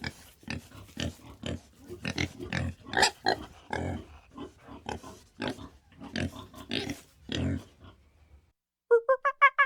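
Pig grunting: a long irregular series of short, low grunts. Near the end a louder, rapid run of evenly repeated calls starts.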